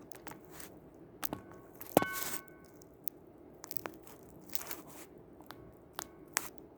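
Scattered clicks and light knocks from work on a sofa, with one sharp metallic clank about two seconds in that rings briefly, followed by a short rasp like fabric tearing.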